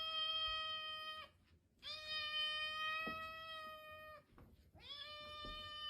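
A pet's long, drawn-out cries, three in a row, each held at a nearly steady pitch for about two and a half seconds with a short gap between. The last one is cut off. These are distressed cries from an animal that is being soothed.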